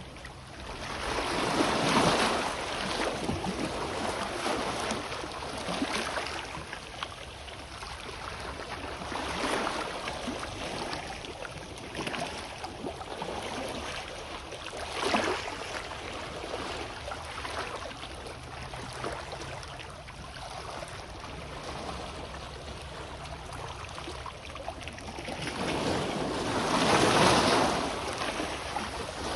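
Sea waves washing onto the shore in slow swells, the two largest about two seconds in and near the end, with smaller washes every few seconds between. A low rumble of wind on the microphone runs underneath.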